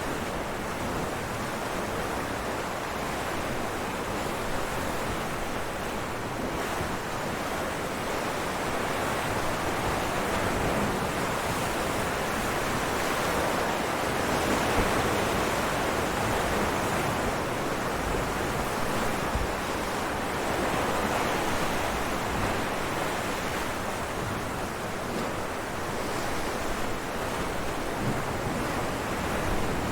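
Ocean waves breaking on rocks: a continuous rushing wash of surf that swells and eases slowly, with no separate crashes standing out.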